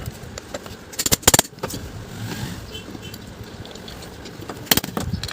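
Sharp metallic clicks and knocks from tools working on a ceiling fan's metal motor housing during disassembly: a quick cluster of strikes about a second in and another couple of knocks near the end.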